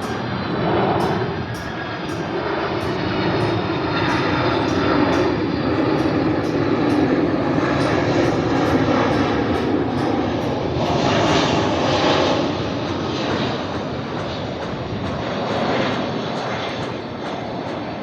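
Boeing 767-300 freighter's jet engines rumbling as the aircraft passes, swelling about a second in, staying loud for about ten seconds, then fading.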